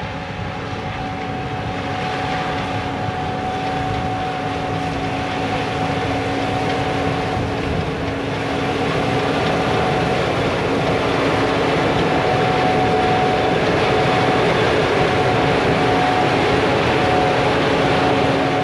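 Gleaner S78 combine with a draper head running steadily while cutting wheat, an even engine and threshing drone with a held hum that grows gradually louder as the machine comes closer.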